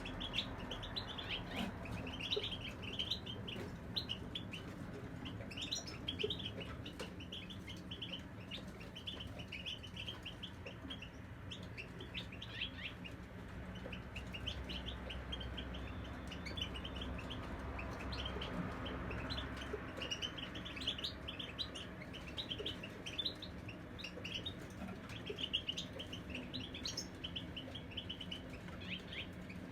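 European goldfinch (chardonneret) singing: a long run of rapid twittering chirps and trills, easing off briefly around the middle before picking up again.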